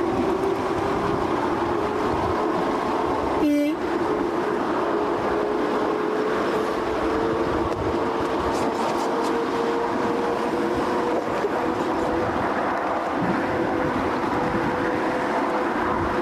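Narrow-gauge railway carriage running along the track: a steady rumble of wheels on rails with a continuous high squeal from the wheels that slowly rises in pitch. The squeal breaks off for a moment about three and a half seconds in.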